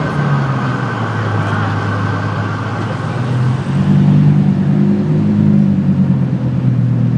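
Car engine running at low, steady revs, growing louder about halfway through.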